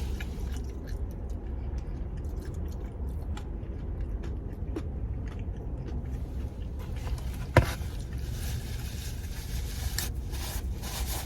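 A person chewing and biting a hard, dry, overcooked chicken bacon melt over a steady low rumble. A single sharp click about seven and a half seconds in.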